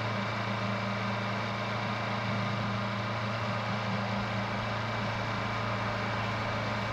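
Honda NX500's parallel-twin engine running at a steady low speed, holding about 30 km/h, over a steady rush of wind and road noise.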